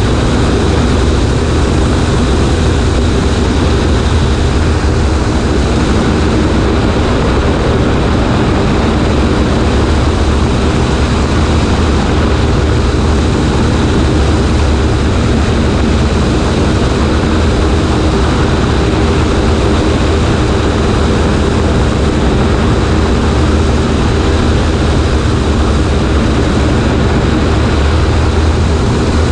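Cessna 140A light plane in flight: its piston engine and propeller drone steadily under a strong rush of wind, picked up from a camera on the right wing.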